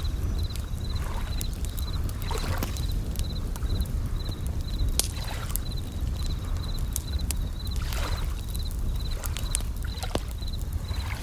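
Campfire crackling with scattered sharp pops, over the low wash of waves, while a bell cricket chirps steadily in short high trills about twice a second.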